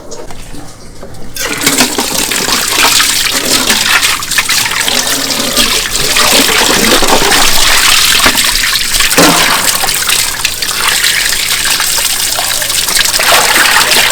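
Tap water running hard and splashing, turned up sharply about a second and a half in.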